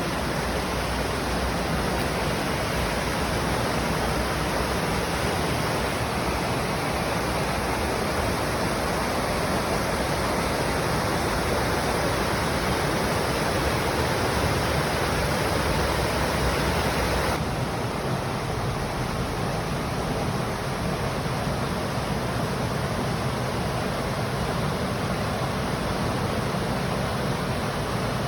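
Steady rush of flowing water, an even unbroken hiss. A little past halfway the sound shifts, turning slightly duller.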